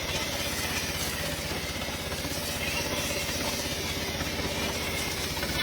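Pressure washer running steadily, its motor humming under an even hiss of water spray.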